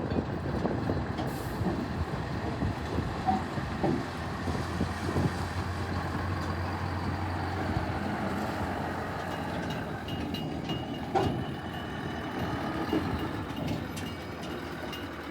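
Scania R620 heavy truck's V8 diesel engine running steadily, with a few knocks and clunks.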